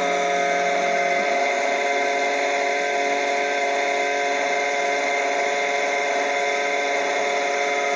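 A 34 kg electro-hydraulic brake thruster running on test after repair: its electric motor and pump give a loud, steady whine made of many held tones. A lower hum drops out about a second in.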